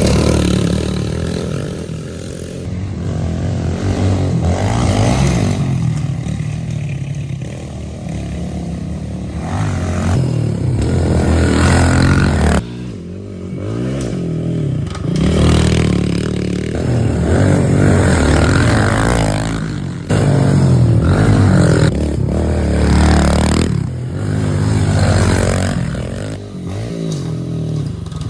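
Pit bike engines run at full throttle, the pitch rising and falling again and again as they rev and shift, with a few abrupt jumps in loudness.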